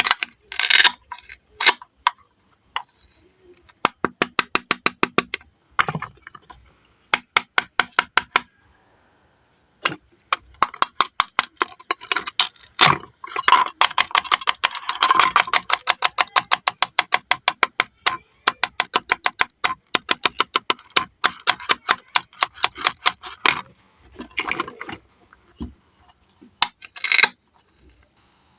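Velcro on toy cutting fruit ripping apart as the halves are sliced with a toy knife: a rapid crackling rasp of many fast clicks, repeated in short bursts of one to two seconds.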